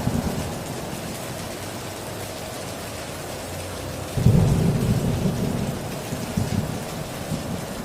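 Heavy rain falling steadily, with a roll of thunder breaking in suddenly a little past halfway, rumbling for about two seconds and fading back under the rain.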